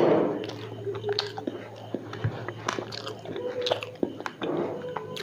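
Close-miked biting and chewing of a fried singara (Bengali samosa) with tomato sauce: a loud bite right at the start, then crisp pastry crackles and moist mouth sounds as it is chewed.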